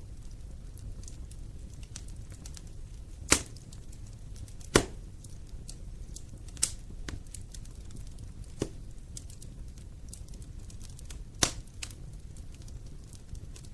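Wood fire burning in a fireplace: a low steady rumble with frequent small crackles and several sharp pops, the loudest about three and five seconds in and again near the end.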